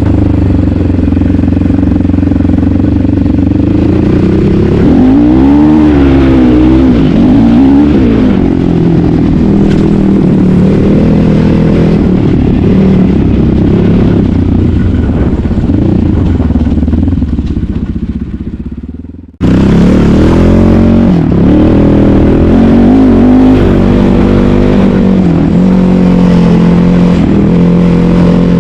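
Asix XT97 300cc enduro motorcycle engine being ridden off-road, revs rising and falling with the throttle. A little after halfway the sound fades away, then cuts back in suddenly and the engine carries on revving up and down.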